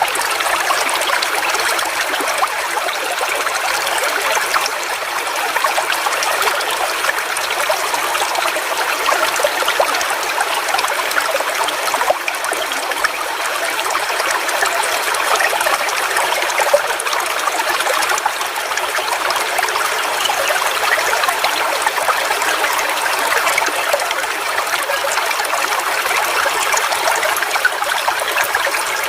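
Forest waterfall: water falling and splashing in a steady, even rush with no pauses.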